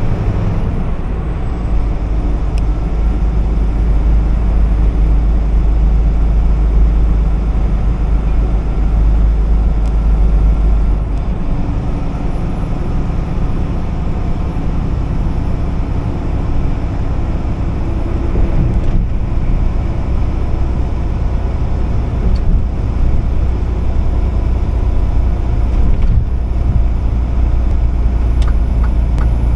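Truck engine running steadily with tyre and road noise while driving, the deep engine hum dominant throughout.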